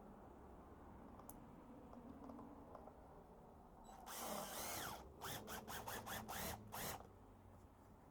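Power drill driving a screw: one run of about a second, then a quick series of short trigger bursts as the screw is seated.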